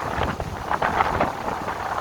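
Gale-force wind gusting hard and buffeting the microphone, rising and falling in surges.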